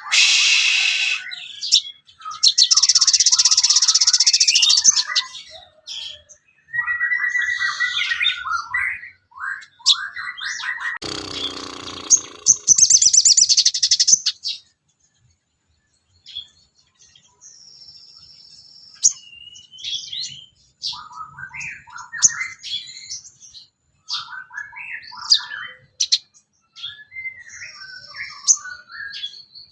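Sogon birdsong used as tutoring material: a varied run of chirps, trills and short whistles, broken by harsh rasping bursts about two and eleven seconds in. It ends on a long held whistle.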